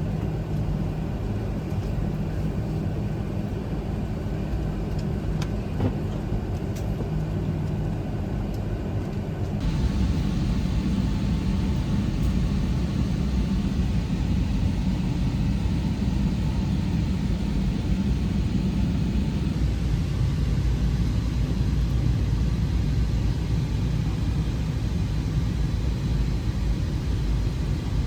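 Steady low rumble of an airliner heard inside the passenger cabin, growing louder about a third of the way through.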